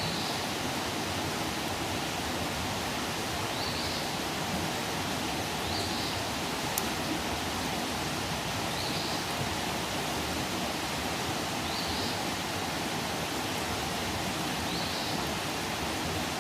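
Campfire burning with a steady hiss and scattered crackle, and one sharp pop about seven seconds in. A faint high chirp recurs every two to three seconds.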